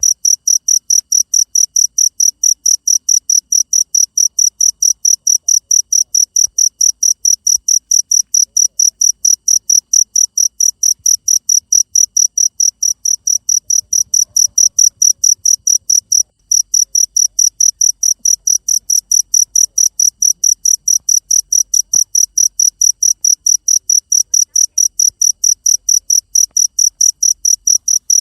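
Cricket chirping in a fast, even, high-pitched rhythm of roughly four to five chirps a second. The chirping breaks off very briefly about sixteen seconds in.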